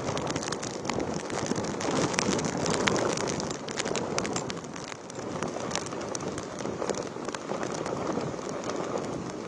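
Heavy cyclone rain driven by gusty wind, with many sharp drop ticks striking a surface close by over a steady rush; it swells about two seconds in and eases off about halfway through.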